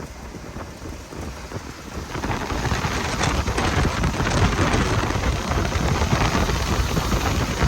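Rain pattering heavily around a moving pickup, with the rush of road and wind noise, getting louder about two seconds in.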